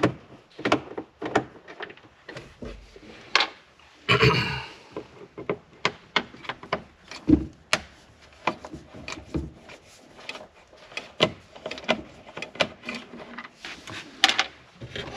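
Irregular clicks, knocks and rattles of hands and tools working on the plastic dashboard trim of a Suzuki Carry kei truck, with a longer scraping rustle about four seconds in.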